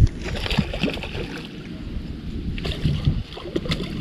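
Wind buffeting the microphone as a steady low rumble, with scattered short knocks and rustles.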